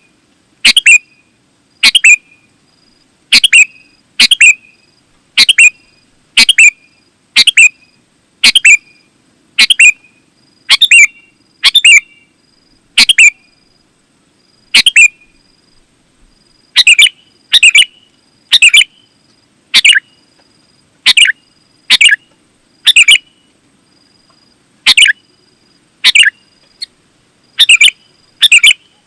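Sooty-headed bulbul (kutilang) calling: short, loud, sharp notes repeated about once a second, with a brief pause about halfway through.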